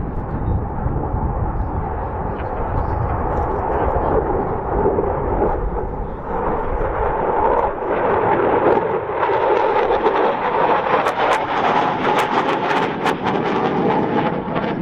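Eurofighter Typhoon jet noise: the loud, dense roar of its twin turbofans. The low rumble thins after the middle while the sound grows brighter, with a run of sharp cracks about three-quarters of the way in.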